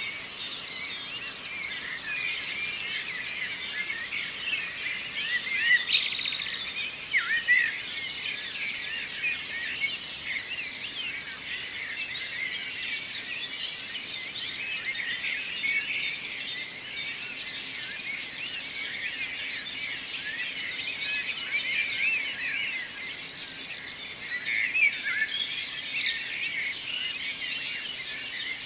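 Dawn chorus of many songbirds singing at once, a dense overlap of chirps and trills, with a few louder calls about six seconds in and again near the end.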